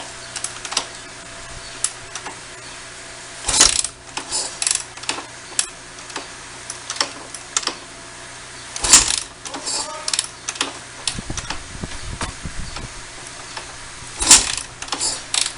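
Kawasaki KX450F motocross bike being kicked over three times without starting: three loud clanking kick strokes about five seconds apart, with lighter clicks and knocks from the kickstart lever and bike in between, and the engine never catches.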